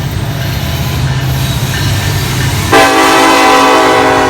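Diesel freight locomotive approaching with its engine rumbling. About two and a half seconds in, its air horn sounds a loud, sustained chord of several notes.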